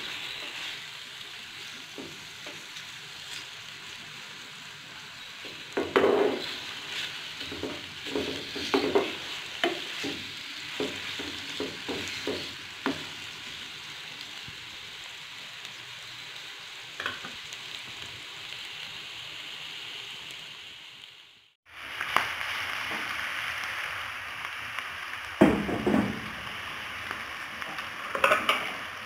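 Mutton liver pieces sizzling as they fry in hot oil in a non-stick pan, with a plastic spatula scraping and turning them now and then. The sound cuts out briefly about two-thirds of the way through, and the sizzle comes back louder.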